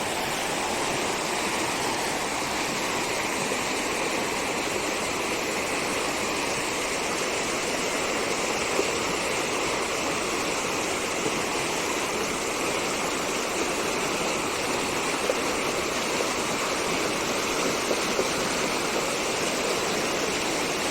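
A rain-swollen seasonal stream running fast, a steady, unbroken rush of flowing water.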